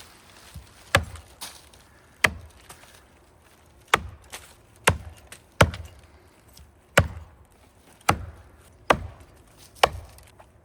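Axe chopping into the trunk of a big maple tree: nine hard strikes about a second apart, each a sharp crack. The wood is very tough.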